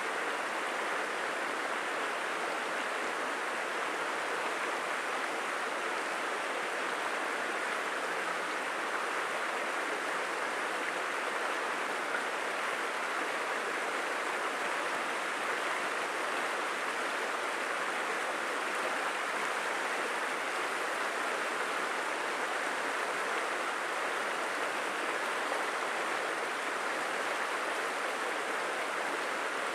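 Steady rushing of a flowing stream, an even wash of water noise that does not change.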